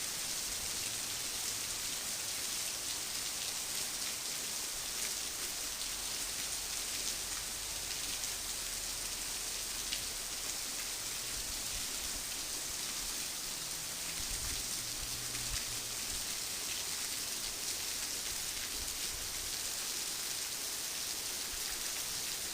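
Heavy rain falling steadily, a dense even hiss with the patter of countless drops striking surfaces.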